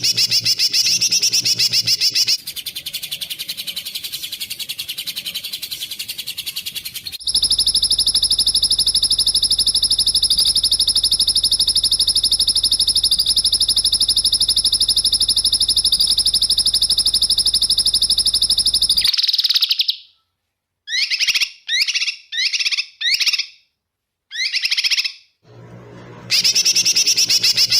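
Small songbird's rapid, sharp, buzzy trills, played as spliced, looped recordings of the kind used as masteran training song. A long even rattling trill runs from about 7 s for some twelve seconds, breaks off, and is followed by a string of about six short separate calls before the trill comes back near the end.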